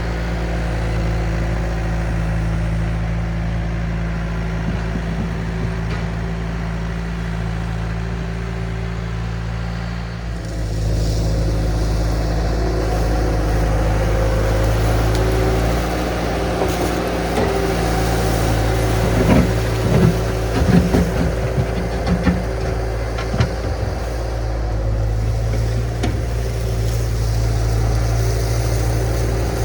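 Diesel engine of a compact earthmoving machine running steadily, getting louder about a third of the way in, with a cluster of knocks and clanks around the middle.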